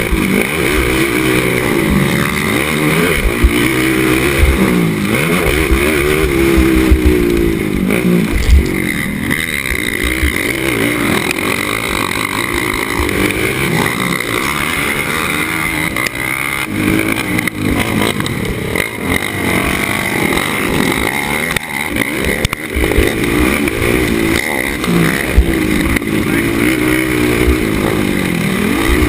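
Racing ATV engine revving up and falling off again and again as it is ridden hard around the track, with wind buffeting the microphone.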